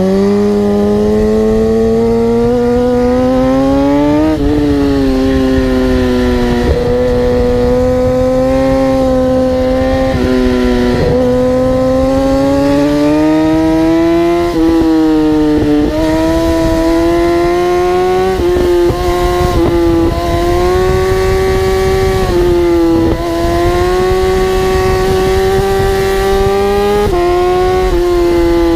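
High-revving vehicle engine held at high revs at speed, its pitch climbing slowly and dipping briefly several times along the way.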